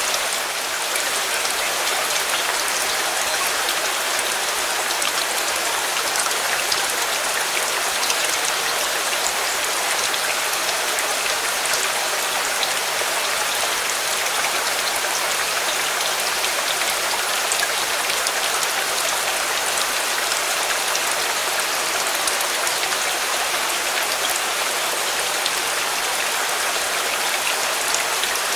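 Steady rain falling evenly, with scattered sharp ticks of single drops.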